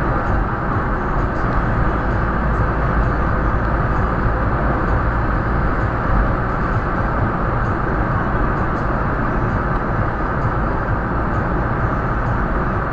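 Floodwater rushing in a steady, loud, unbroken noise with a deep rumble underneath.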